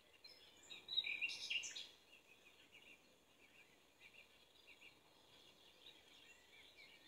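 Faint bird chirps in the background throughout, with a louder burst of sound about a second in that lasts under a second.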